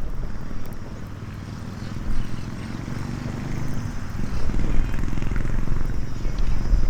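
Seaside outdoor ambience: a low, uneven rumble of wind and waves that eases off a second or so in and swells again, with a few faint crackles from a small wood campfire.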